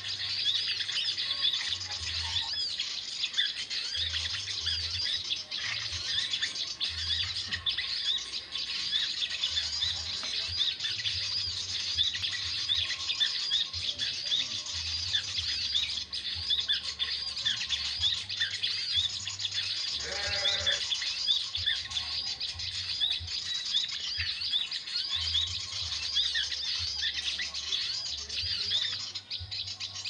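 Small birds chirping and twittering continuously in a dense, high-pitched chorus, with one short, lower call about twenty seconds in.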